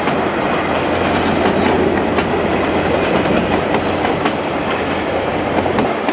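GO Transit bilevel passenger coaches rolling past at close range: a loud, steady rumble of steel wheels on the rails, with scattered clicks and clacks from the wheels crossing rail joints.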